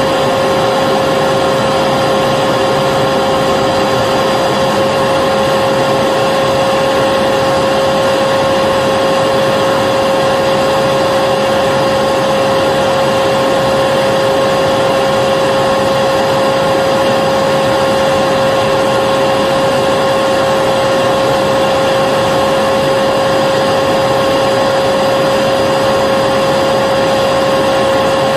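Vacuum cleaner running steadily: an even rushing of air with a constant high whine from the motor, no change in pitch or level.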